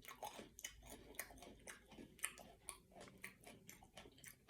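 Faint, crunchy chewing of plant-based pork rinds: irregular soft crunches and clicks, several a second.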